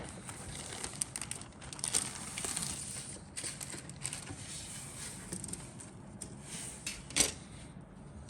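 Kit packaging being handled: irregular crinkling and crackling, with one sharper, louder crackle about seven seconds in.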